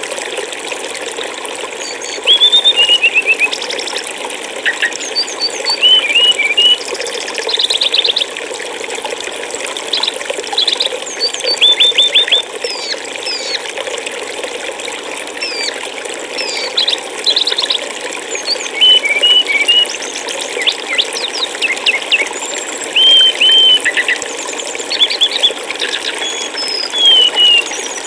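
Steady rush of flowing water with songbirds calling over it: short chirps, quick rapid trills and sliding whistled notes recurring every second or two.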